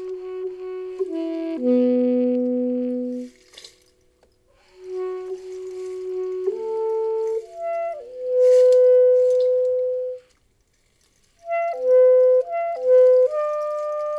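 Saxophone playing a slow, meditative melody of long held notes in three phrases, with two short pauses between them.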